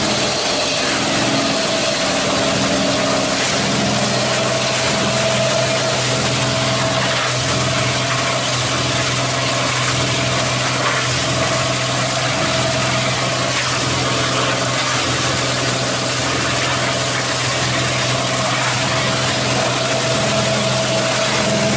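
Plastic bottle recycling washing line running: a steady industrial machine noise, with a constant hum and a higher whine over a hiss.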